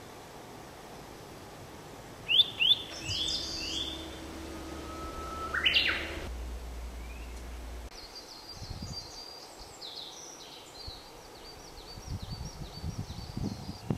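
Wild songbirds singing. A phrase of short, down-slurred whistles comes about two seconds in, then a rising whistle near six seconds. From about eight to thirteen seconds there is a fast run of high, thin notes.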